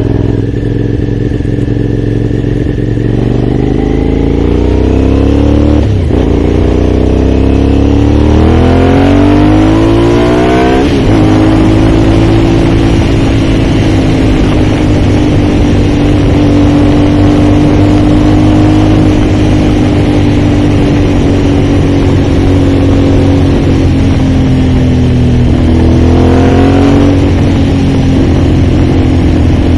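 Aprilia Shiver's V-twin engine under way, revs climbing and dropping sharply at upshifts about six and eleven seconds in. It then holds a fairly steady cruising note, climbs briefly again and shifts up once more near the end.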